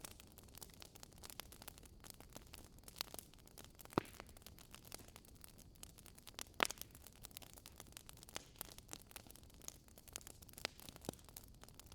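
Wood fire crackling in a fireplace: irregular small pops and snaps over a soft hiss, with two louder pops, one about four seconds in and one just past the middle.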